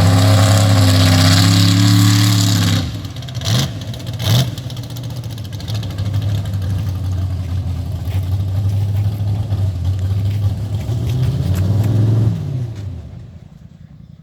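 Mega truck's engine held high for nearly three seconds, then let off, with two quick throttle blips. It then runs steadily at a lower pitch, rises briefly near the end and fades away.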